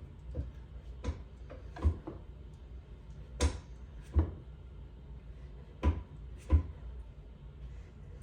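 Pull-up bar knocking in its mount as the pull-up set goes on: sharp knocks in pairs, one pair about every two and a half seconds.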